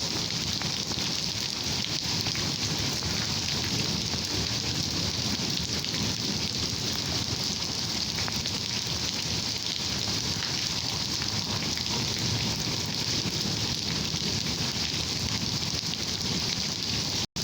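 Steady rain falling in a thunderstorm: an even, unbroken hiss with no distinct thunderclaps.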